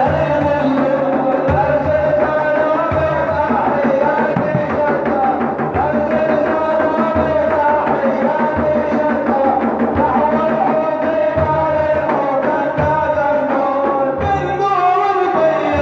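Arabic madih, a religious praise song: a solo voice singing a melodic line over a hand-drum beat.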